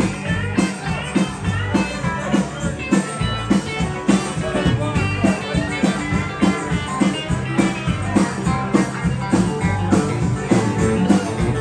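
Instrumental break of a Bakersfield-style country song: a guitar plays the lead over bass and a steady beat.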